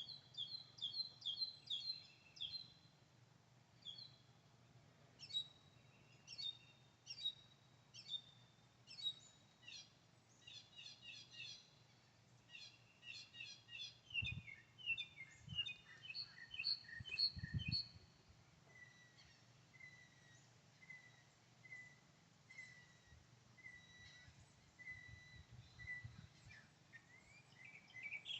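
Small birds chirping and singing in quick, repeated phrases, then a slow series of single call notes over the last third. A few low thuds sound about halfway through.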